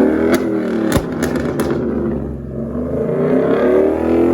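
Car engine revving hard, its pitch climbing, dropping and climbing again, with several sharp cracks in the first couple of seconds.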